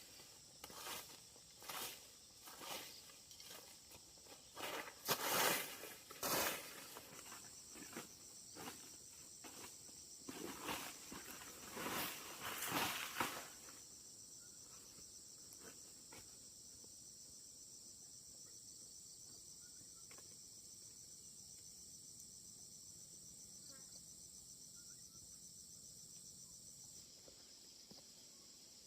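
Footsteps at roughly one or two a second during the first half, with a steady, high, pulsing insect trill of crickets or cicadas beginning about seven seconds in. After the steps stop, only the insect trill remains.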